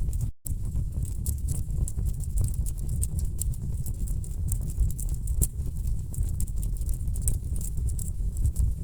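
Wood fire in a fireplace crackling and popping irregularly over a steady low rumble of burning logs. A brief gap of silence cuts in about a third of a second in.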